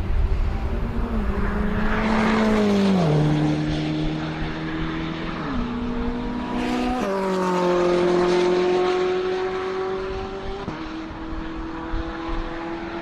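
Ferrari F8 Tributo's twin-turbo V8 exhaust running loud, its engine note holding steady and then dropping in pitch abruptly several times, with swells in loudness about two seconds in and again around eight seconds.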